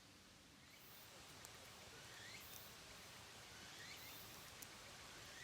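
Faint outdoor background with a small creature's short rising call, repeated about every one and a half to two seconds, each followed by a brief high hiss.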